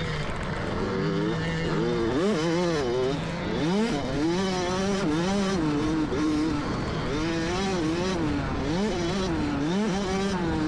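Dirt bike engine revving up and falling back over and over as the throttle is opened and closed, the pitch rising and dropping every second or so.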